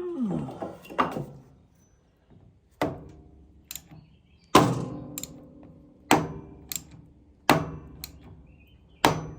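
Heavy hammer blows on a metal part of the sawmill's clutch and drive assembly, about five strikes roughly a second and a half apart, each ringing briefly.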